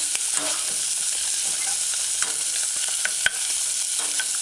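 Codfish chunks sizzling as they fry in hot coconut oil in a stainless steel saucepan, while a metal cooking spoon scrapes and clicks against the pan bottom as the fish is flipped. One sharp knock about three seconds in.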